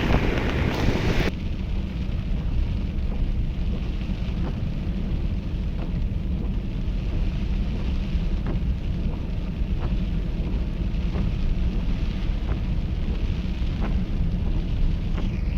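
Steady low roar of the flooded Swat River, mixed with wind buffeting the microphone. A brighter hiss drops away suddenly about a second in, and faint scattered clicks sit in the rumble.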